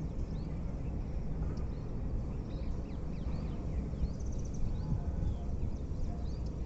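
Small birds chirping, with short rising calls scattered throughout and a brief rapid trill about four seconds in, over a steady low rumble.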